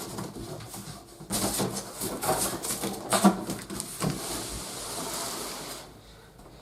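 Cardboard box and plastic packaging being handled: irregular rustling, crinkling and scraping, ending in a steadier sliding rustle that stops about a second before the end.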